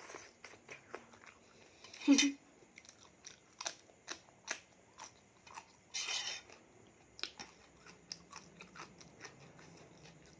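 A person chewing a spicy seafood salad close to the microphone: wet mouth clicks and crunches, with a louder crunch about two seconds in and another around six seconds in.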